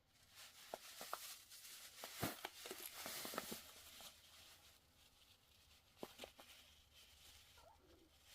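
Faint handling noise: light rustling with a few scattered clicks and taps, busiest in the first half.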